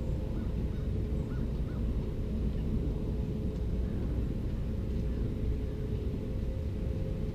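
Steady low outdoor rumble, like distant traffic, with a steady hum running through it. A few faint, short bird calls come in the first two seconds.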